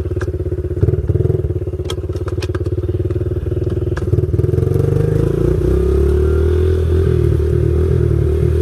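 Pit bike's small single-cylinder engine running at low revs, picking up slightly about four seconds in and then holding steady. A few sharp clicks and clatters about two seconds in.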